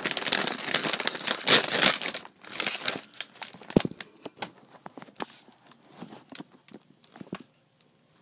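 Crinkling plastic chip bag being handled and torn open, with dense crackling for the first three seconds. There is one sharp snap about four seconds in, then a few lighter rustles.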